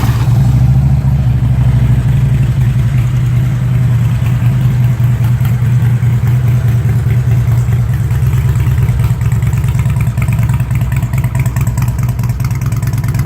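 2005 Harley-Davidson Ultra Classic Electra Glide's fuel-injected Twin Cam 88 V-twin idling steadily, freshly started.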